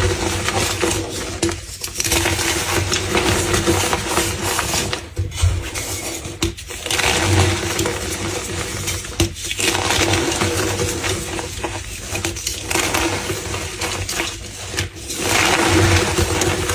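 Brittle crumbly material being crushed, a dense crackling crunch that comes in stretches of a second or two with short breaks between them, over a steady low hum.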